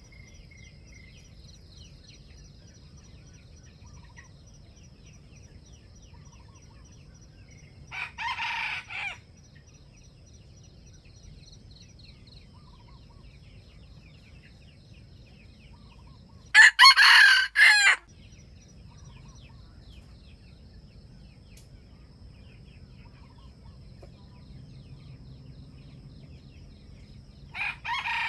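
Junglefowl roosters crowing: three short crows, each about a second long and about ten seconds apart, the middle one loudest and closest. Beneath them runs a faint steady high insect drone with scattered faint bird chirps.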